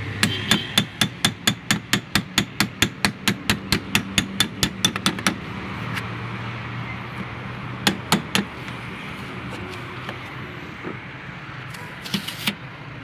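Rapid, even hammer blows, about five a second, for the first five seconds, then three more blows a few seconds later over a steady low hum.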